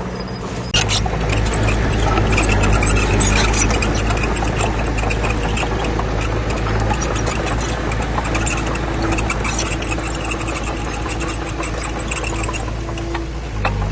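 Heavy diesel engine of earthmoving machinery running steadily, with a dense rattle over it. A sharp click comes about a second in, where the sound gets louder.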